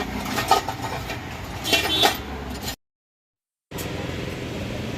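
Metal parts and hand tools clinking and knocking during engine repair work, several sharp strikes in the first two seconds over a steady low hum. The sound cuts out completely for about a second near the middle, then only the low hum remains.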